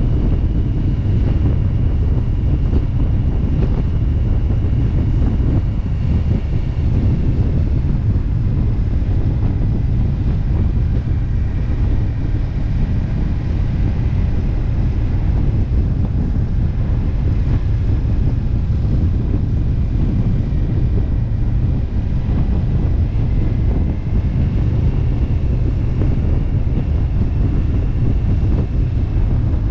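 Steady wind rush on the microphone of a moving motorcycle, with the engine running underneath at road speed and a faint high whine.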